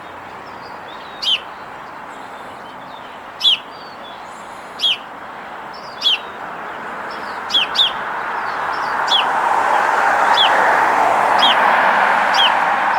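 A small bird chirping over and over, one short sharp chirp that drops in pitch every second or so. Partway through, a rushing noise swells up underneath and stays to the end.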